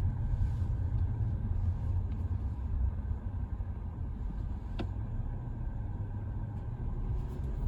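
A car running, heard from inside its cabin as a steady low rumble, with a faint click about five seconds in.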